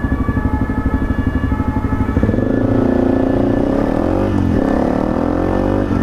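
Honda CRF250M's single-cylinder four-stroke engine idling with a pulsing beat, then, about two seconds in, revving up as the bike pulls away from a stop. The pitch climbs, drops at a gear change about four seconds in, and climbs again before another shift near the end.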